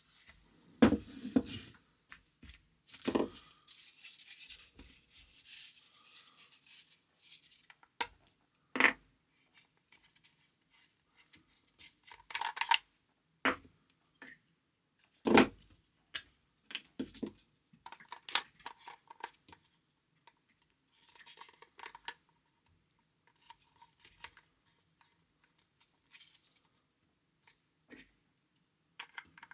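Irregular handling noises: scattered sharp knocks and clicks with short bits of scraping and rustling, at uneven intervals, with a small-room sound.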